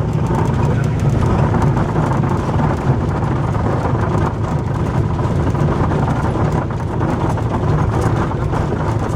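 Cessna 172's piston engine and propeller running steadily, a loud, even low drone.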